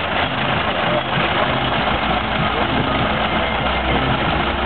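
1917 Ford Model T cement mixer's four-cylinder engine idling steadily.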